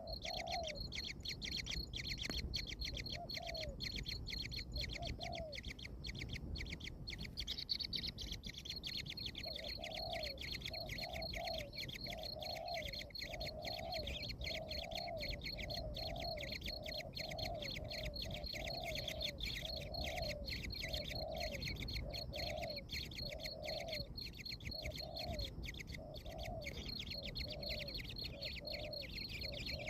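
Bird calls: a short, low call repeated about once a second, sparse at first and steady from about ten seconds in, over a continuous high, fast-pulsing trill.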